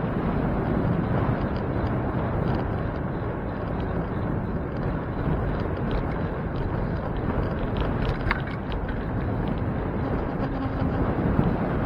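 Steady rush of wind over the microphone and road rumble while riding a bicycle, with a few faint light clicks.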